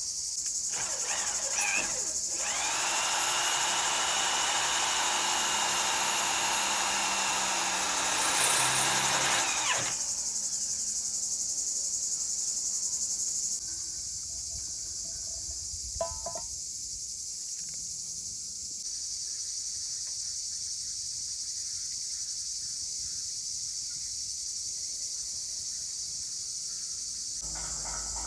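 Steady high chorus of crickets. For the first ten seconds it is overlaid by a louder motor sound that spins up, runs steadily with a whining tone and winds down. A single sharp click comes about sixteen seconds in.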